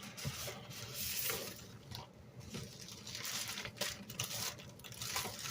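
Packaging rustling and crinkling as a shipping box is rummaged through by hand, in a run of irregular crackles and scrapes.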